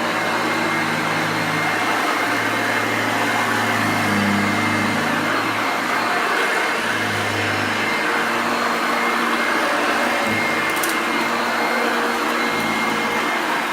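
A Hoover Junior upright vacuum cleaner, rebuilt by Jaxvax from assorted parts, running steadily: an even rush of air with a constant high whine over a low motor hum.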